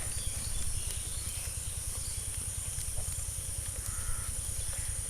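Breadcrumbed chicken balls deep-frying in hot oil, a steady sizzle, over a constant low rumble.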